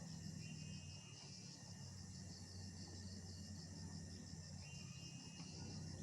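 Insects, crickets by the sound of it, chirping in a fast, even pulse, with a low steady hum underneath.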